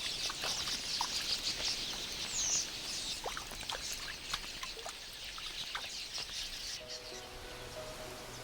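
A huge flock of red-billed quelea chattering: many overlapping short chirps and calls blending into a dense din. About seven seconds in, soft music with held notes fades in under it.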